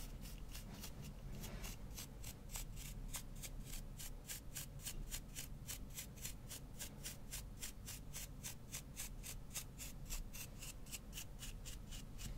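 Fast, even brush strokes on a microphone, about four or five scratchy swipes a second.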